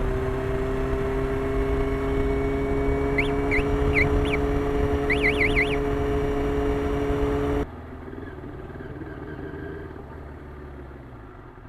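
Motorcycle engine running steadily at cruising speed with road and wind noise, its pitch creeping slowly upward. A few quick high chirps come through around the middle. About two-thirds of the way in the sound drops suddenly to a much quieter rumble.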